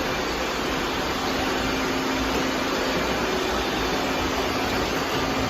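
Several robot vacuums running at once, a steady whirring drone of their motors and brushes with a faint steady hum.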